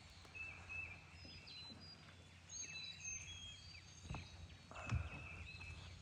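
Birds singing in the background, many short whistled notes overlapping from several birds. Two low thumps come about four and five seconds in, the second the loudest.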